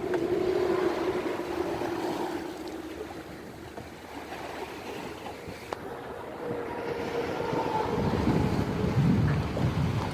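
Sea waves washing, with a faint steady hum underneath. Wind starts buffeting the microphone about eight seconds in.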